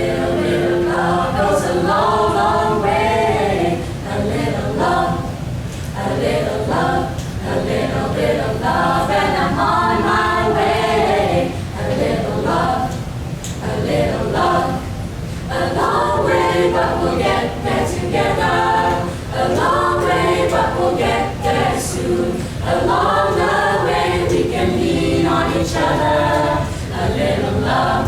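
A group of voices singing together in harmony, in phrases of a few seconds each.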